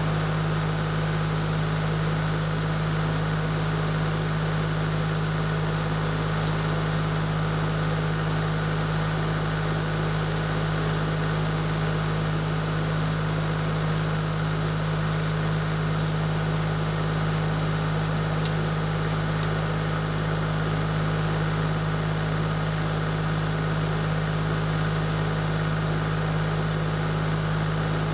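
An engine running steadily at constant speed, a low even hum that does not change.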